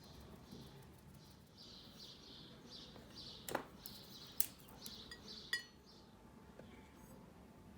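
A few light clinks of tableware, three sharp ones in the middle, against faint bird chirping.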